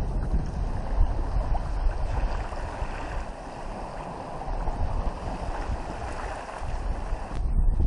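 Wind buffeting the microphone over a steady rush of water and waves against the hull of a sailboat under sail in a fresh breeze. The rushing water cuts off suddenly near the end.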